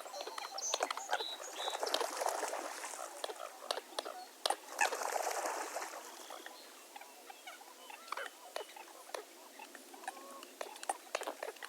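Wetland dawn chorus of many birds: dense short chirps, calls and clicks overlapping, busiest and loudest in the first half, thinning out after about six seconds.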